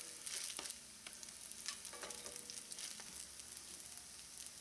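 Potato pancake batter frying in hot oil in a cast-iron skillet: a faint, steady sizzle with small crackles, and a few light scrapes of a spatula pressing the patties flat.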